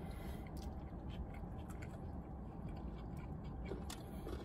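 People chewing food with their mouths closed, with soft, irregular mouth clicks over a steady low background rumble.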